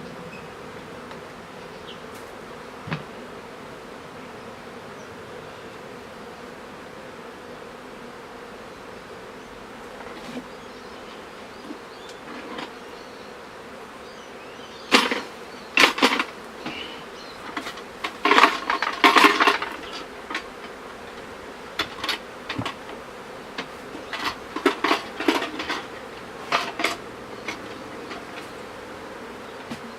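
Honeybee colony buzzing steadily. From about halfway through, irregular sharp clicks and knocks break in over the hum, coming in clusters.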